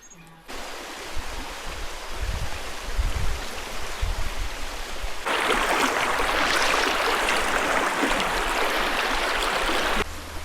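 Flowing stream water, a steady rushing hiss that grows much louder about five seconds in and cuts off suddenly near the end.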